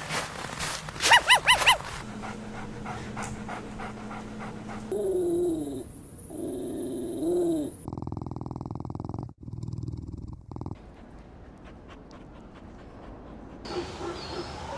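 Small puppies vocalizing: a quick run of high yips about a second in, then wavering whining cries in the middle, then a rough low growl that stops abruptly, followed by quieter stretches.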